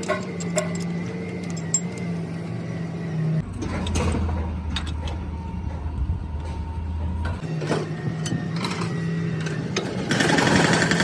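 A machine motor running with a steady hum that drops to a lower pitch from about three seconds in to about seven seconds in, then returns, with scattered sharp metallic clicks and a louder burst of noise near the end.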